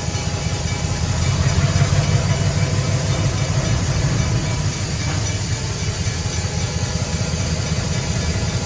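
Diesel locomotive engine running with a low rumble, getting louder about a second in and easing back after about four seconds.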